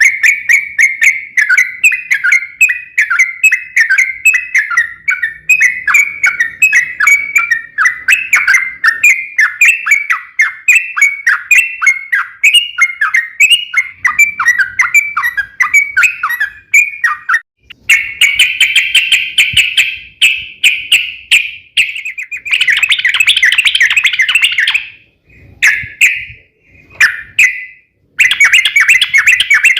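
Yellow-vented bulbul (trucukan) singing a long rolling chatter: a fast run of repeated sharp chirps, several a second, that turns into a denser, continuous warbling run past the middle, broken by a few short pauses near the end.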